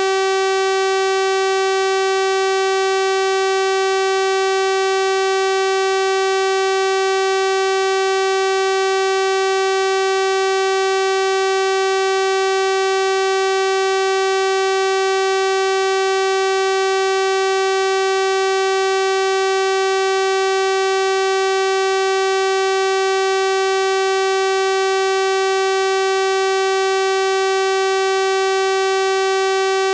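A steady, unchanging 384 Hz sawtooth-wave tone, electronically generated, with a bright buzzy timbre from its full series of harmonics.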